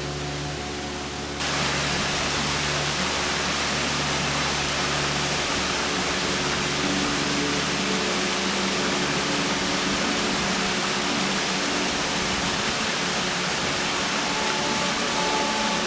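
Waterfall: a steady rush of falling water, which abruptly gets louder about a second and a half in.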